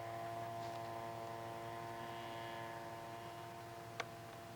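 Steady buzzing drone of a model tow plane's engine at a distance, running at constant power as it climbs away towing a glider. A single sharp click about four seconds in.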